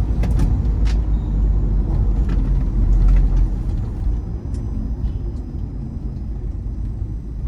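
Ford Endeavour's 3.0-litre diesel engine and road rumble heard from inside the cabin while driving, a steady low rumble that swells about three seconds in, with a few light knocks early on.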